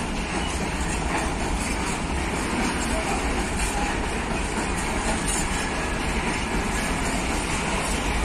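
A train running on the track, its wheels and cars making a steady, unbroken running noise on the rails.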